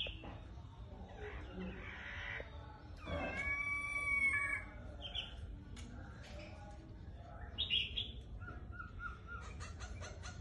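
A laughingthrush (khướu mun) singing loudly, with a varied string of whistled and harsh calls: a long rich note a few seconds in, sharp calls around the middle, and a quick run of short repeated notes near the end.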